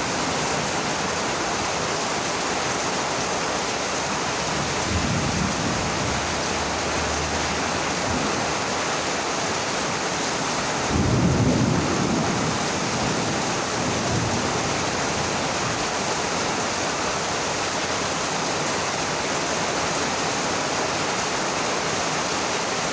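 Heavy rain falling steadily, with a few low rolls of thunder; the loudest rumble comes about halfway through.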